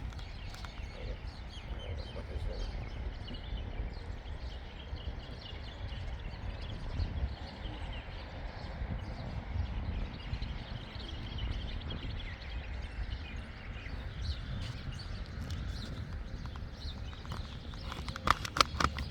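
Outdoor ambience: small birds chirping faintly over a steady low rumble, with a few sharp clicks near the end.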